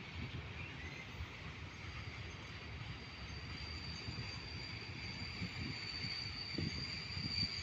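Freight train of covered sliding-wall wagons and a tank wagon rolling past, a low rumble with uneven clatter from the wheels on the rails. A thin steady high tone grows louder from about halfway.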